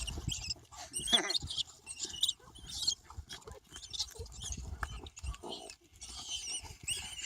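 Terriers hunting rats: irregular short, high-pitched squeals and scuffling, over low rumble on the microphone.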